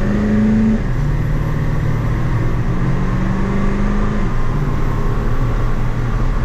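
Ford 7.3 L Powerstroke turbo diesel V8 under full-throttle acceleration through a new 4-inch MBRP exhaust. The engine note rises steadily and drops back twice at gear changes, about a second in and about four seconds in.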